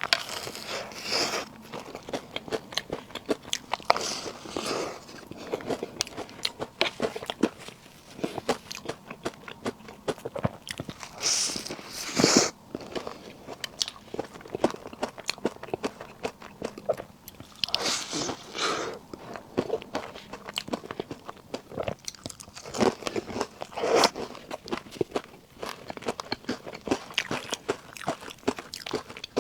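Close-miked eating of puff snacks: a series of crunchy bites, each followed by steady chewing, with a louder bite every few seconds.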